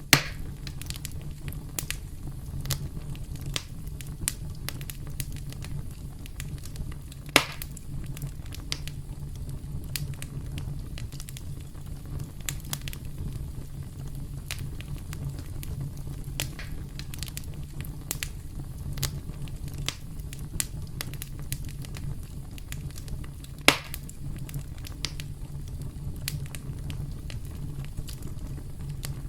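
Campfire crackling: a steady low rumble of burning wood with frequent small crackles, and three loud pops: one just as it begins, one about seven seconds in and one about twenty-four seconds in.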